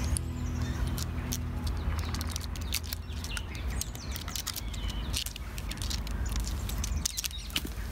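Small birds chirping over a steady low rumble, with many short sharp scratches and clicks as a cat's claws grip the tree bark.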